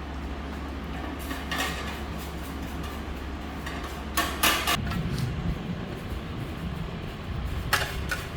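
Clattering knocks of metal parts being handled over a steady low hum. The loudest clatter comes about halfway, where the hum gives way to an uneven low rumble.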